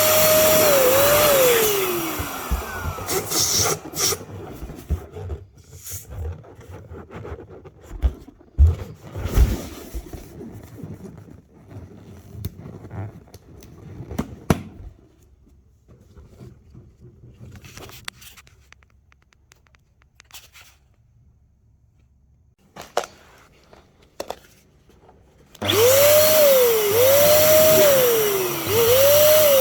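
An electric balloon inflator pump runs for about two seconds at the start and again near the end, its whine swinging up and down in pitch. In between come quieter rubbing, squeaks and a few sharp knocks as balloons are handled.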